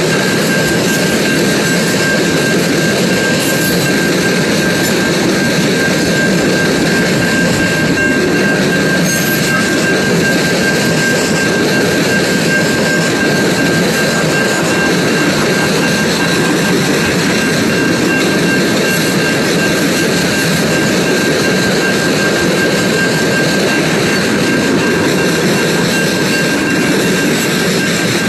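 Freight train of tank cars rolling past: a steady rumble of wheels on rail, with a thin steady whine running through it.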